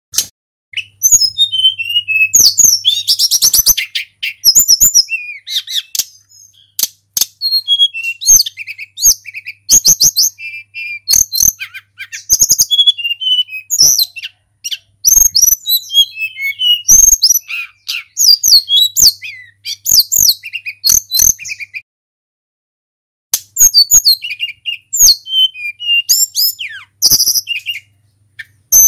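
Tledekan gunung (hill blue flycatcher) singing in full song: rapid runs of high, sweeping whistled phrases and quick trills, broken by short gaps and by a pause of about a second and a half about two-thirds of the way through.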